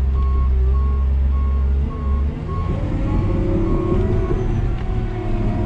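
New Holland D180C bulldozer's diesel engine running, heard from inside the cab, its deep steady drone dropping off about two seconds in and then changing pitch as it works. Over it a vehicle's reversing alarm beeps about twice a second and stops about four seconds in.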